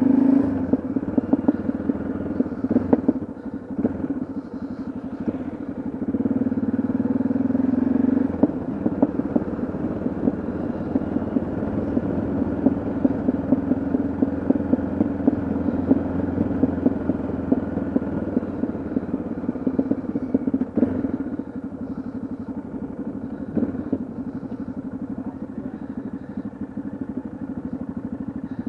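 Yamaha XT660Z Ténéré's single-cylinder four-stroke engine running steadily on the move. It gets louder for a couple of seconds about six seconds in, then settles, and eases off a little after about twenty seconds.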